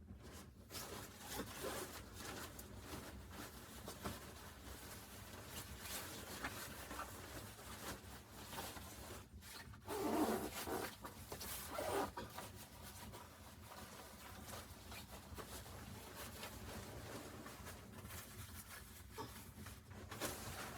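Rustling and rubbing handling noises, with a louder scrape about ten seconds in and another about two seconds later.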